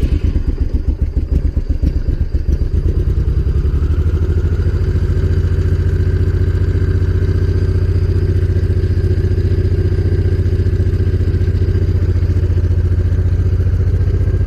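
Honda VTX1800 V-twin engine firing up on fresh spark plugs: it catches right at the start, runs unevenly for about two seconds, then settles into a steady, fairly high cold idle. It starts well, and the fuel injection holds the idle high until the engine warms.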